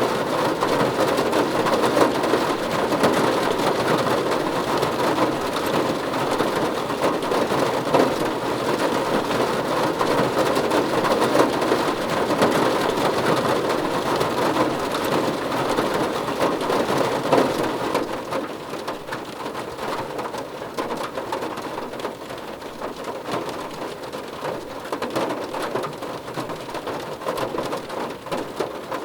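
Steady rain on a car roof: a dense patter of drops hitting the metal. About two-thirds of the way through, the rain eases and grows quieter.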